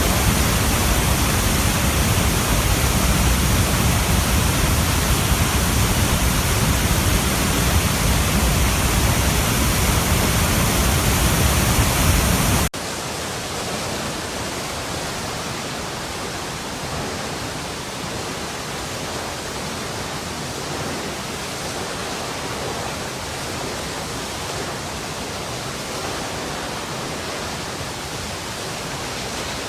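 Running water rushing steadily. About twelve seconds in it cuts abruptly to a quieter, thinner water sound with less bass.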